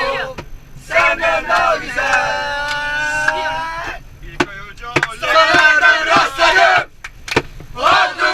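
A group of people shouting and yelling together in loud bursts: one long held shout, then shorter, choppier ones.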